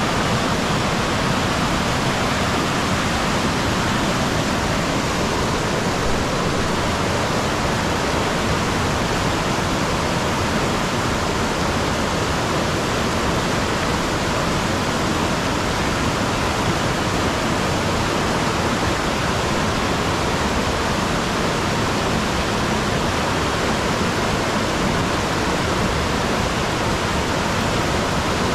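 Steady, unbroken rush of falling water, loud and even throughout.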